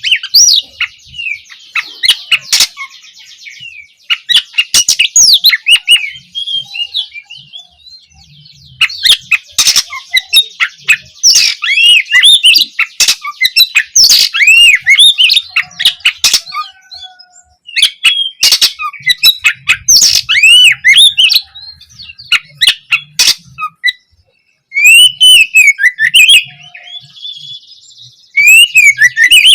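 Oriental magpie-robin (kacer) singing: a loud, varied song of sharp whistled notes and rising and falling phrases, mixed with rapid buzzy trills, broken by brief pauses.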